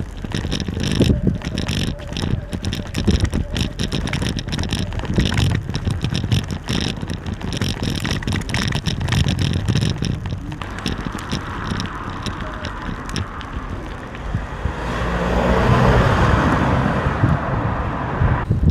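Riding noise from an e-bike: a steady haze of wind and rolling noise with frequent rattling clicks and knocks through the first half, then a smoother noise that swells and fades near the end.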